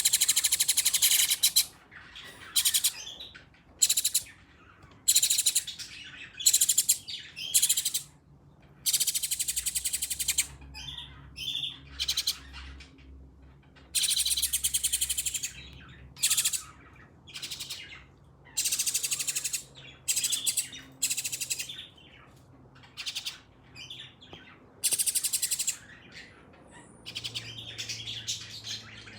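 Nestling birds begging to be fed: repeated shrill, raspy chirping in bursts, each from a fraction of a second to about two seconds long.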